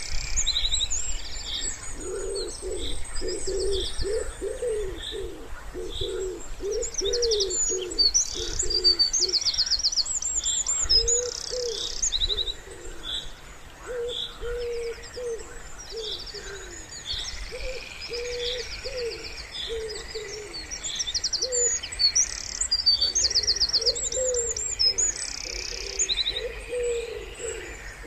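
Wood pigeon cooing in repeated low phrases, most densely in the first third, while small songbirds sing high, fast trills and chirps over it.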